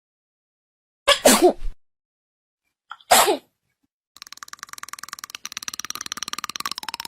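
Two loud, short sneezes, about a second in and again about three seconds in. From about four seconds in, music with a fast, even ticking beat.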